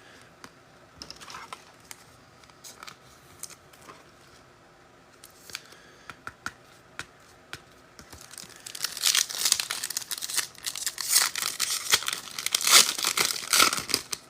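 Foil wrapper of a trading card pack being torn open and crinkled, loud and crackly from about eight seconds in, after a few faint clicks of cards being handled.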